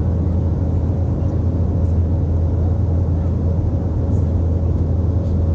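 Airliner cabin noise: a steady drone of engine and airflow with a strong low rumble and a faint constant hum.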